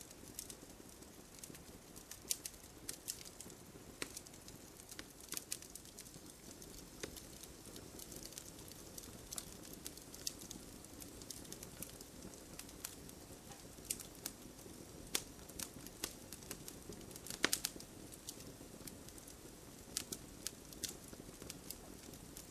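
Wood campfire crackling: irregular sharp pops and snaps over a low steady hiss of burning, with a louder cluster of pops about fifteen and seventeen seconds in.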